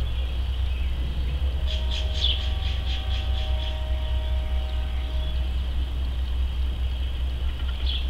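Steady low rumble with a faint steady high hum; about two seconds in, a small bird gives a quick run of eight or so high chirps, about four a second.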